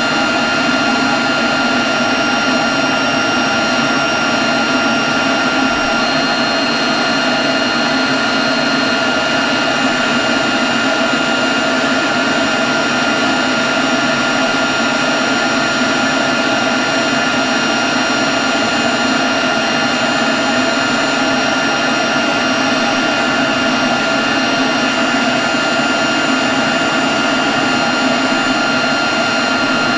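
Leaf blower running steadily at constant speed: a loud, even rush of air with a high, steady whine over it.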